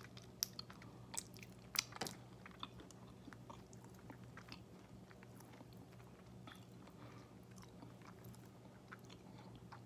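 Close-up chewing of a mouthful of chicken wing, with a few sharp wet clicks and smacks in the first two seconds, then softer chewing. A faint steady low hum runs underneath.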